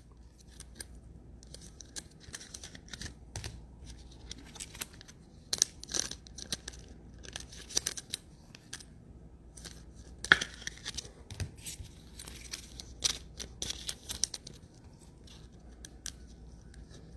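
Trading-card packaging being torn open and handled by hand: irregular short tearing, crinkling and scraping of wrappers and card stock.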